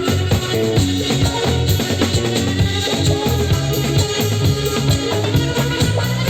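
Trance band playing: drum kit and bass guitar lock into a steady, driving groove, with sustained keyboard and guitar lines over it.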